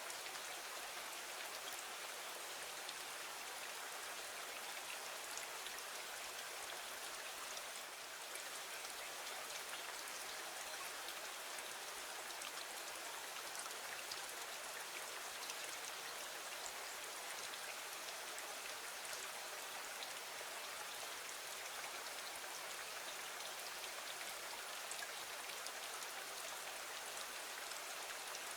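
Steady rain falling against a window: an even hiss of rain with small scattered ticks of individual drops.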